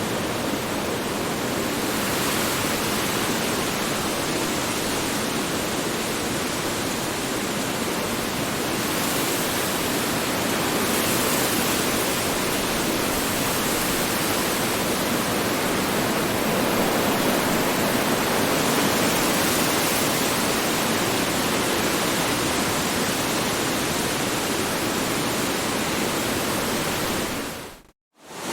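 Strong wind rushing steadily with slow swells in strength. Near the end it fades out quickly to silence for about half a second and then starts again, a seam where the recording loops.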